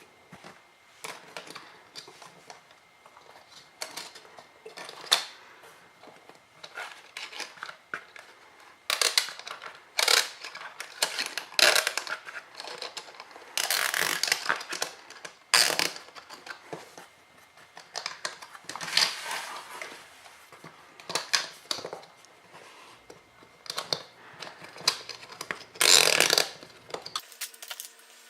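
Hands working small plastic and metal parts of a paramotor's pull-start recoil starter: irregular clicks, scrapes and rattles coming in clusters. About a second before the end a steady hum with several tones sets in.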